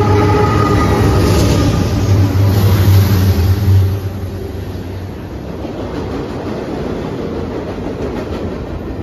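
CSX diesel freight locomotive passing close at speed, its engine loud with a deep steady drone and the last of its horn chord fading out in the first second or two. About four seconds in, the engine sound drops away and the freight cars roll past with steady wheel and rail noise.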